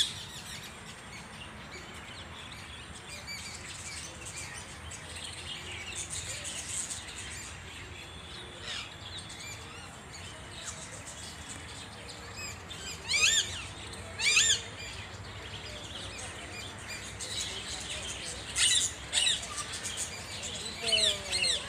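Birds chirping and twittering throughout. Louder bursts of quick, high chirps come twice about halfway through and several times near the end.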